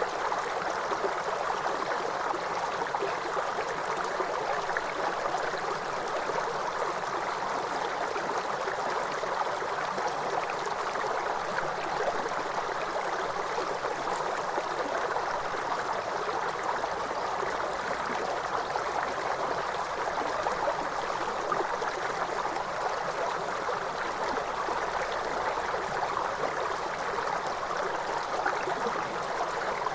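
Waterfall: water rushing and splashing in an even, unbroken wash.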